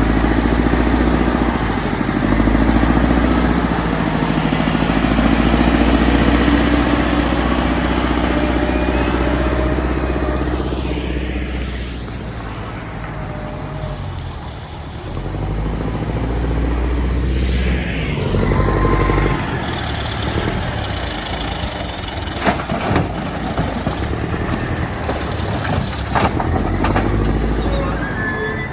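Heavy diesel machinery running steadily with a deep engine drone, easing off briefly twice, then several sharp knocks in the last few seconds.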